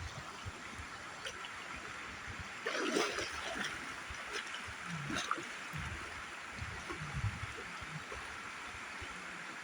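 River water running steadily, with a few splashes; the loudest splash comes about three seconds in.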